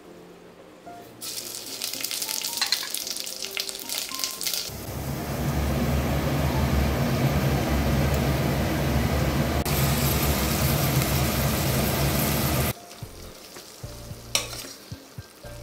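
Whole spices crackling in hot oil in a stainless steel pot, then chopped onions sizzling loudly and steadily for several seconds. After a sudden cut, a spatula scrapes and clinks against the pot as a thick masala is stirred.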